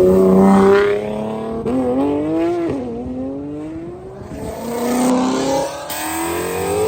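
A car accelerating hard with a loud exhaust, revs climbing through the gears; the engine pitch drops back at gear changes about three and six seconds in.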